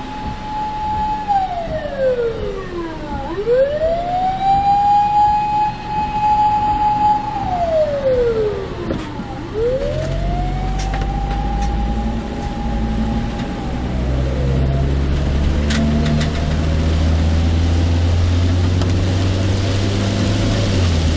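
An emergency vehicle's siren wailing: a long held tone that slides down and sweeps back up, three times over, before dying away about two-thirds of the way through. Underneath, the low rumble of the car's engine and tyres, which grows louder from about halfway on.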